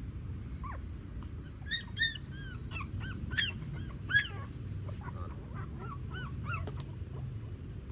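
Newborn puppies whimpering and squealing in a string of short high-pitched cries, a few of them louder about two and four seconds in.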